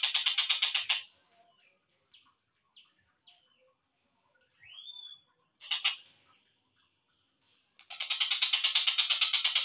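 Slowed-down recording of a tengkek buto kingfisher calling: a rapid rattling run of notes for about a second, then a few faint chirps and a short rising whistle, and the rattling call starts again near the end.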